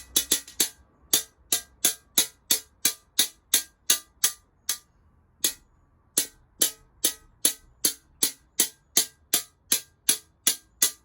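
Ball end of a glass cutter tapping along the underside of a scored glass pane to run the cut: a steady series of sharp glassy taps, about two to three a second, with a brief pause about five seconds in.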